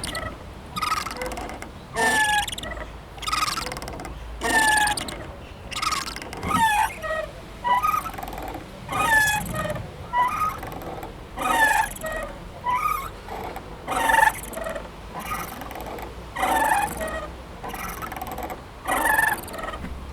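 Playground swing creaking as it swings, a short squeak with a falling pitch about once a second.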